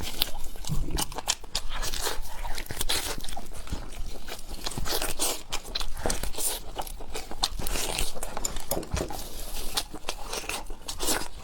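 Close-miked chewing and biting of food, with many irregular crunching clicks throughout.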